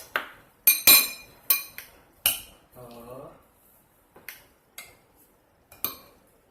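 Metal utensils clinking against plates and dishes, about eight sharp ringing clinks, closest together in the first two and a half seconds and sparser after.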